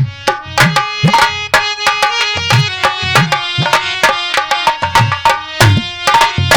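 Instrumental break in North Indian Dhola folk music: a hand drum plays a quick rhythm of sharp strokes, some low and bending in pitch, under steady held notes from a melodic instrument.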